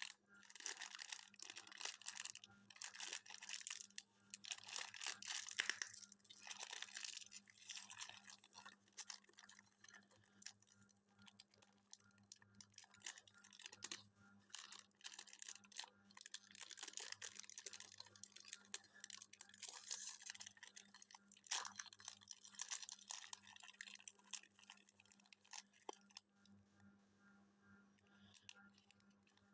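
Irregular rustling and crackling over a steady low hum, dense for most of the stretch and thinning out near the end.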